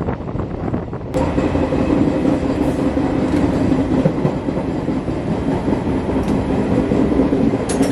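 A moving local passenger train heard from its open doorway: the steady running noise of wheels on the rails with an occasional clack. About a second in, the sound jumps louder and a steady hum joins it.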